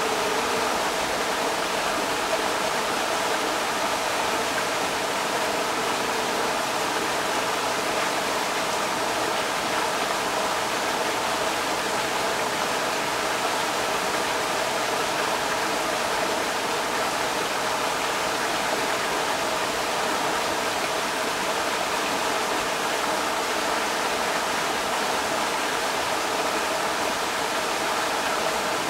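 Creek water rushing steadily over rocks, a constant even noise with no change in level.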